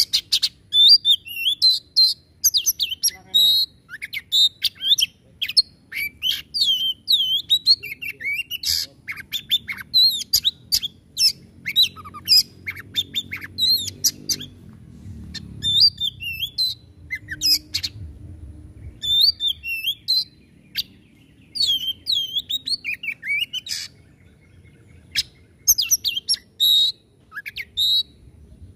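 Oriental magpie-robin (kacer) singing a rapid-fire 'nembak' song: quick bursts of sharp, harsh notes mixed with whistled phrases, broken by short pauses.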